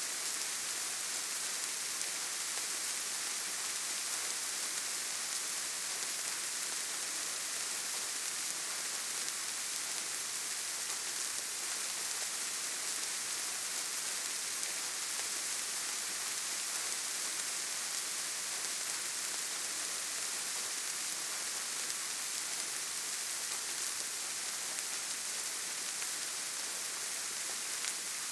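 Steady rainfall in a forest: an even, unbroken hiss with no thunder or single drops standing out.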